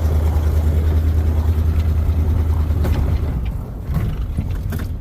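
Plow truck's engine droning steadily under load while the truck pushes a car. The drone eases off about three seconds in, and a few short clicks follow near the end.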